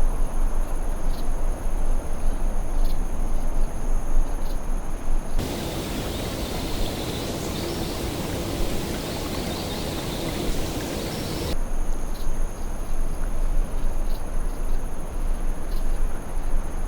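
Wilderness ambience: a steady rushing noise with insects trilling as steady high tones. For about six seconds in the middle the trilling drops out and the noise changes, with faint chirps.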